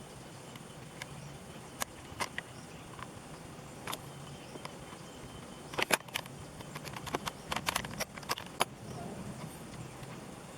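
Scattered sharp clicks and light knocks, a few at first and then a quick cluster about six to nine seconds in, over a steady low hum.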